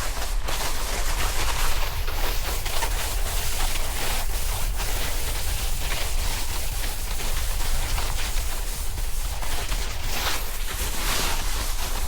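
Snowboard riding over snow, its base and edges hissing and chattering in quick rough scrapes, with wind rumbling on the microphone.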